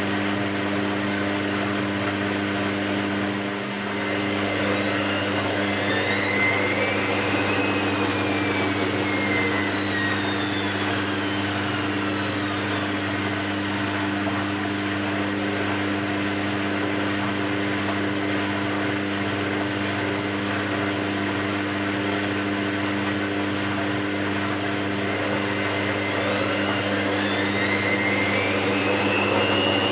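Hoover VisionTech washing machine running with a steady mechanical hum, while its drum motor whines up and back down in pitch as the drum speeds up and slows: once about five seconds in, and rising again near the end.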